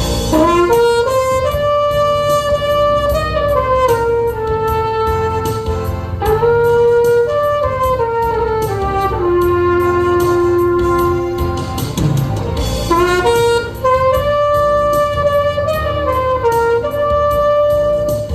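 Trumpet playing a slow, sustained trot melody over a recorded backing track, with held notes and small slides between them. The melody breaks off briefly about two-thirds of the way through, then picks up again.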